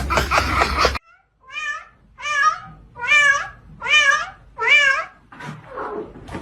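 A cat meowing over and over: about five loud, wavering meows evenly spaced, then two weaker, lower ones near the end. For the first second a loud, dense noise plays before cutting off abruptly.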